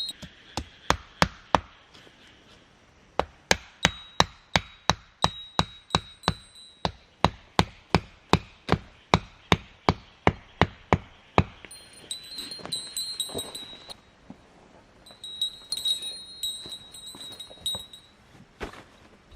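Hammer driving a metal tent stake into the ground: quick, even strikes about three a second, each with a metallic ring. A few blows come first, then a long run of them, followed by a few light metallic clinks near the end.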